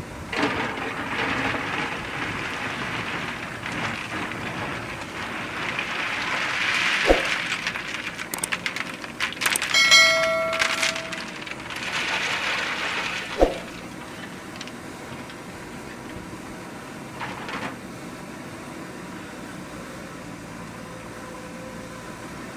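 JCB 3DX backhoe loader at work: a loud rushing, scraping noise with two sharp knocks, and a short horn-like tone about ten seconds in. After about fourteen seconds it settles to a quieter steady running sound.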